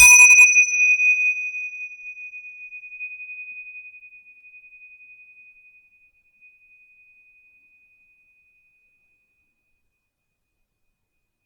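A small meditation bell struck once, giving a clear high ringing tone that fades slowly over about eight seconds.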